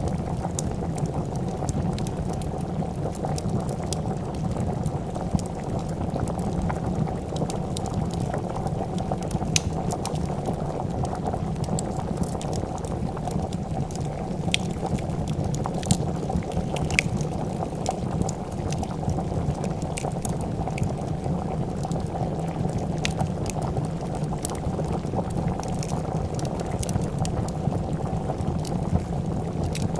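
A pot of soup boiling with a steady bubbling, with the scattered sharp crackles and pops of a fire throughout.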